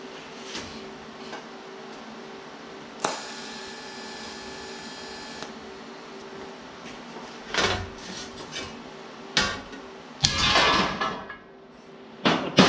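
Metal tools and sheet metal being handled at the bench: irregular clanks and knocks, one strike about 3 s in ringing on for a couple of seconds and a longer rattle near the end, over a steady shop hum.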